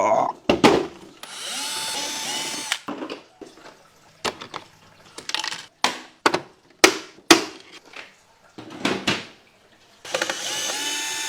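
Cordless electric screwdriver running in two short bursts, about a second in and again near the end, backing out screws from an air conditioner indoor unit's casing. Sharp clicks and knocks of the plastic housing being handled come in between.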